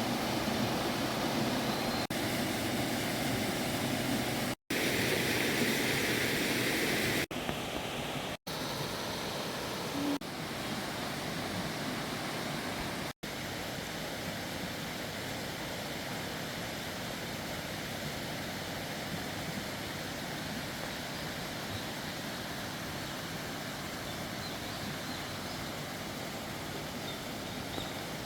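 Steady rushing hiss of a mountain stream, cut off abruptly and resumed several times in the first half.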